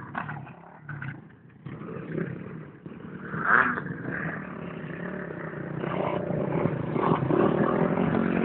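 Motocross motorcycle engines running and revving, with a brief loud burst about three and a half seconds in, then getting louder and closer near the end.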